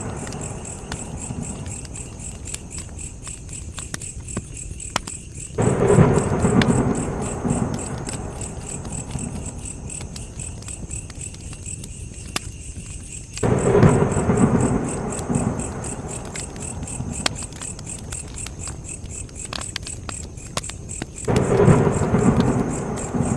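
Campfire crackling with a few sharp pops, while crickets chirp steadily in the background. Three times, about eight seconds apart, a low rumble starts suddenly and fades over a few seconds.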